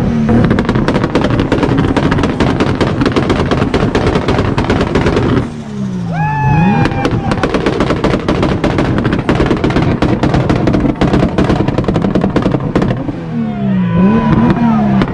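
Car engine held on a two-step launch limiter, the exhaust crackling with rapid-fire bangs for about five seconds. The revs then dip and climb again before another long run of rapid bangs, and the revs swing down and up again near the end.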